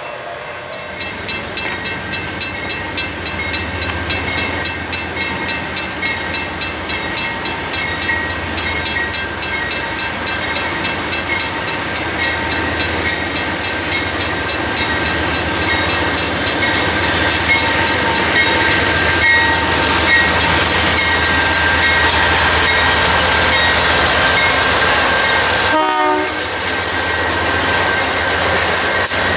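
A rapid, evenly repeating bell rings about three times a second, likely a grade-crossing bell, as a freight train approaches. From about halfway through, the rising rumble of the intermodal freight's diesel locomotives and cars grows louder and takes over as they pass close by.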